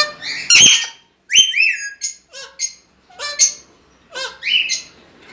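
A pair of Alexandrine parakeets calling: a run of short harsh squawks mixed with whistled notes, with a clear rising whistle about a second and a half in.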